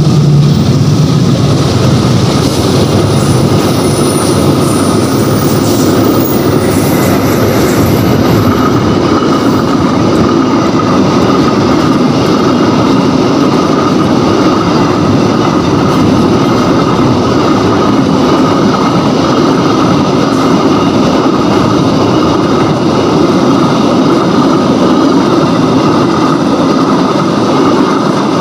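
Freight train of empty container flat wagons rolling past close by: a steady rumble and rattle of wheels on rail, with a thin, steady high wheel squeal running through it. The diesel locomotive's engine hum is heard in the first second or so, then fades as it pulls away.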